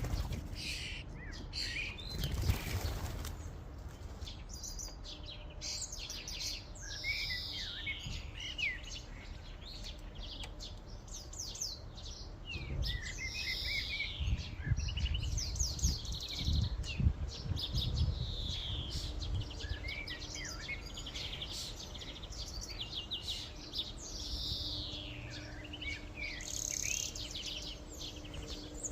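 A flock of common starlings chattering at a feeder, full of falling whistles and clicks. A sudden rustle comes about two and a half seconds in, and low thumps come in the middle.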